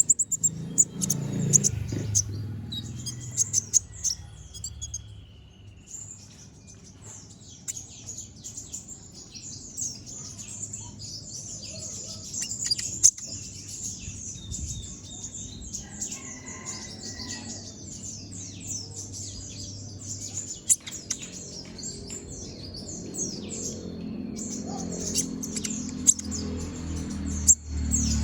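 Kolibri ninja sunbird singing a fast, nearly continuous chattering song of sharp, high twittering notes, thinning out for a few seconds near the start before running on densely.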